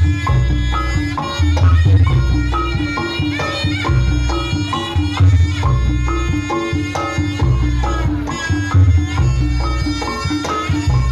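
Reog Ponorogo ensemble music: a reedy slompret (shawm) melody over kendang drums, with a steady repeating beat in the low gongs and chimes.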